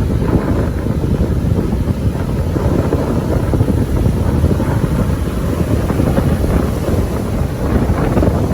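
Strong storm wind buffeting the microphone: a loud, steady, gusting rumble.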